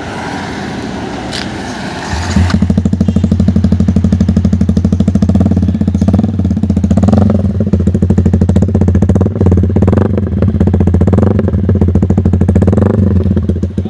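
Yamaha R15 V4's single-cylinder engine running through an SC Project full-system exhaust. It comes in loud about two seconds in and holds a steady, fast-pulsing exhaust note.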